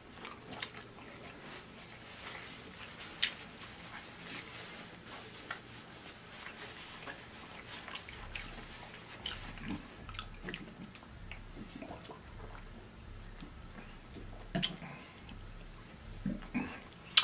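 A person chewing food with soft, scattered wet mouth clicks and lip smacks.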